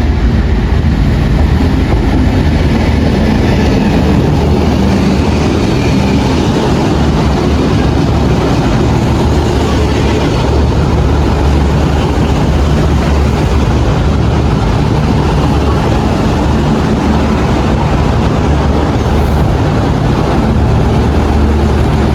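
A train running, a steady loud rumble throughout.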